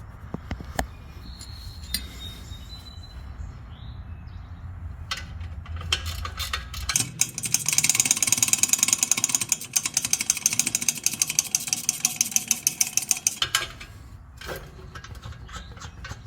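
Socket ratchet clicking rapidly and evenly, about six clicks a second, for roughly six seconds from about seven seconds in, as a 13 mm bolt on the exhaust bracket is backed out. Before and after that run there is only a low hum with a few scattered metal clicks.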